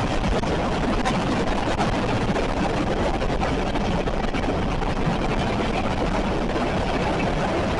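A train passing with a steady, unbroken rumble.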